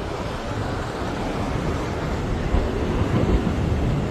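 Wind buffeting the microphone in a steady low rumble, mixed with the sea washing on a rocky shore.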